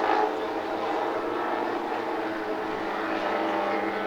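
Two-stroke Zenoah 38 petrol engines of large radio-controlled Avro Lancaster scale models running steadily in flight, several engines buzzing together at slightly different pitches.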